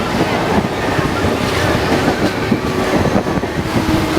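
Mumbai suburban train running at speed, a steady rattle and rumble of the carriage with wind noise on the microphone.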